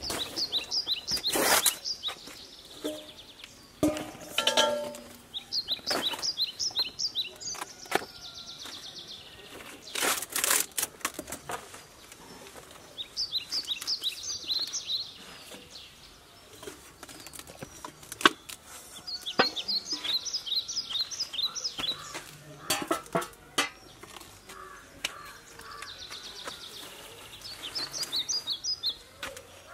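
A small bird calls in repeated bursts of rapid high chirps every few seconds. Between the calls, banana leaves rustle and a steel bowl and a stone are handled on a cooking pot, with a few sharp knocks.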